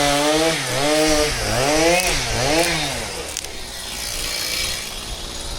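Two-stroke chainsaw running at high revs, its pitch rising and falling several times as the throttle and load change. After about three seconds the engine tone fades, leaving a quieter rushing noise.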